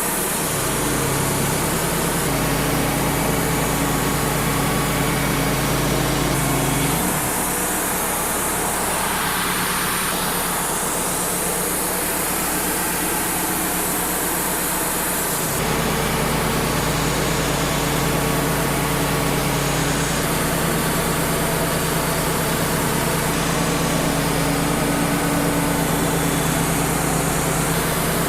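Wood-Mizer LT35 hydraulic portable sawmill running steadily while sawing 5/4 red oak boards, its engine hum shifting about 7 seconds in and again about 15 seconds in.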